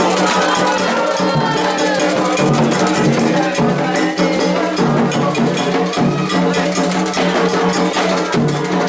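Afro-Brazilian religious festival music: steady, fast percussion of drums, a bell and shakers over held pitched tones.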